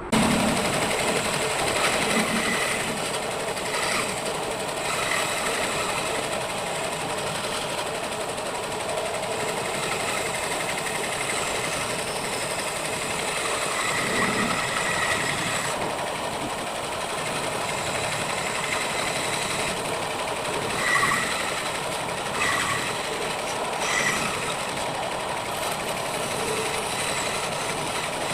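Electric woodworking power tool running steadily, its motor sound continuing without a break.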